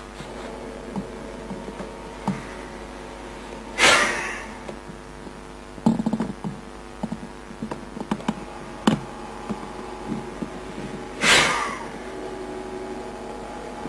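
Two sharp, forceful breaths about seven seconds apart, the kind of pulsed breath used when charging water with a quartz crystal. Under them run a steady hum and scattered small knocks and clicks.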